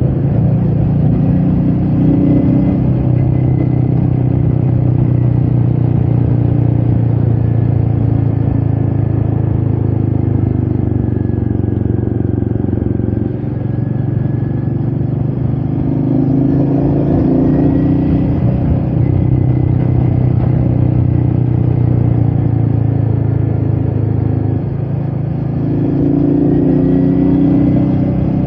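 Royal Enfield Meteor 350's single-cylinder engine running steadily under way, with wind noise over the microphone. The engine note eases briefly twice, about a third of the way in and again near the end.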